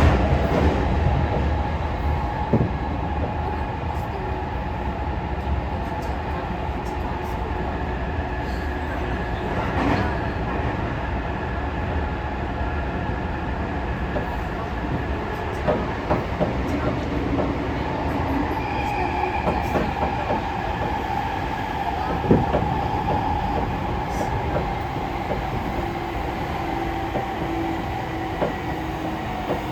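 Tokyo Metro 16000 series subway car running between stations, heard from inside the car: a steady rumble with scattered clicks from the wheels on the rail. Thin steady tones run throughout, and near the end a tone slides downward in pitch.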